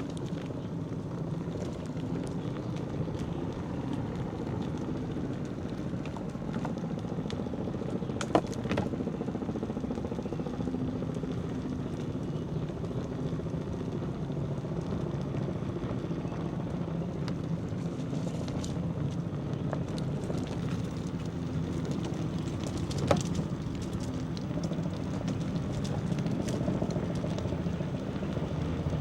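Steady low hum and rumble of riding along a village road, with a sharp click about eight seconds in and another about twenty-three seconds in.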